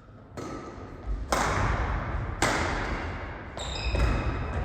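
Badminton rally in a hall: sharp racket hits on the shuttlecock about once a second, each ringing on in the hall, with a high squeak of shoes on the court floor a little after midway.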